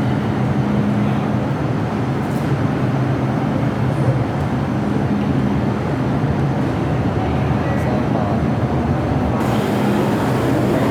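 MTR M-Train electric multiple unit running, a steady rumble with a low, even hum. About nine seconds in, the sound turns brighter and hissier.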